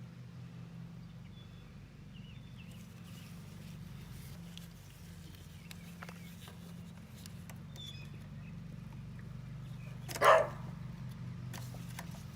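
A single dog bark about ten seconds in, over a steady low hum.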